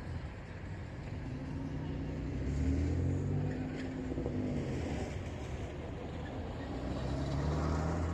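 Road traffic: cars running by. Their engine hum swells about a third of the way in and again near the end, over a steady rush of tyre noise.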